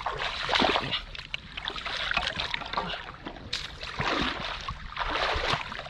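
Water splashing and sloshing in irregular surges, with short splashy bursts that come and go.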